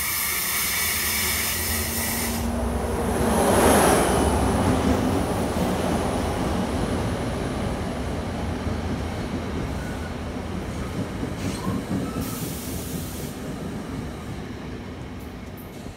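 New Jersey Transit commuter train arriving and rolling past along the platform. Its rumble builds to the loudest point about four seconds in as the head end goes by, then the cars roll past with a steady rumble that slowly fades.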